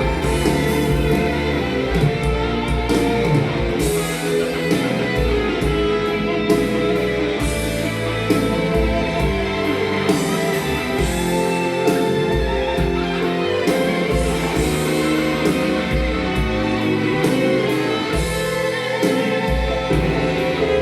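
Instrumental break of a Korean rock ballad led by guitar, played back from CD through JBL S101 loudspeakers driven by a Marantz 2330B receiver and picked up by a microphone in a small room.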